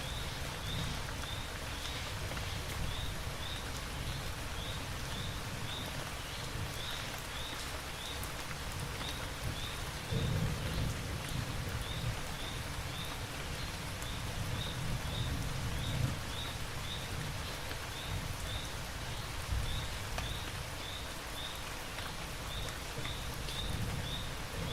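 Steady rain falling, with low rumbles of distant thunder that swell about ten seconds in. A short high chirp repeats about twice a second throughout.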